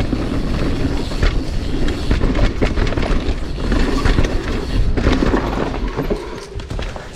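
Mountain bike rolling along a dirt singletrack: a steady rumble of tyres on the trail with many sharp rattles and knocks from the bike over roots and rocks, easing off near the end.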